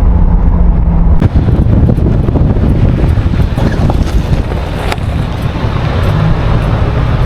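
Car driving along a road: steady engine and road rumble, with wind noise on the microphone.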